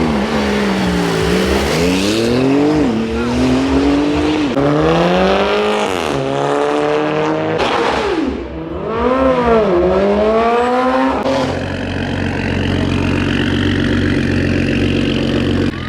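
A car engine revved repeatedly, its pitch climbing and dropping about five times. About eleven seconds in it settles into a steady, even drone.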